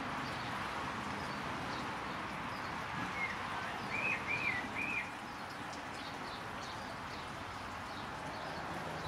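Outdoor background noise with small birds chirping faintly, and a short run of three or four arched whistled bird notes about four seconds in.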